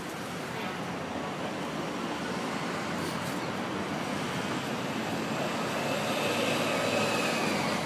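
Steady city street traffic noise that slowly grows louder, swelling about six to seven seconds in as a vehicle passes, with a faint high whine on top.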